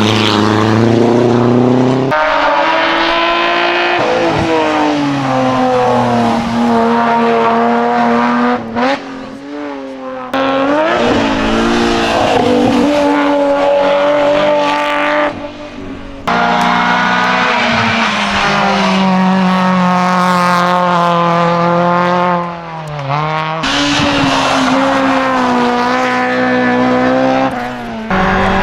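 Hill-climb race car engine run hard, its note climbing and falling through the rev range. Three times it drops away briefly as the revs fall, then comes back in abruptly at full volume.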